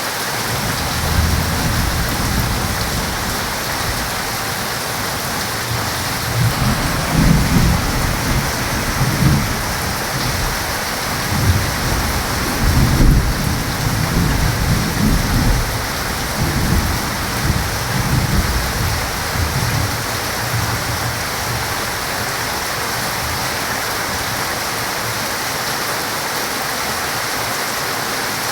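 Heavy, steady rain with a long roll of thunder rumbling low underneath, swelling several times before dying away in the last third, leaving the rain alone.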